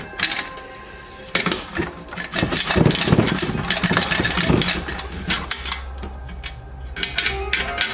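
Clicks and clatter of tools on metal, densest early on, with a steady low hum setting in about five seconds in.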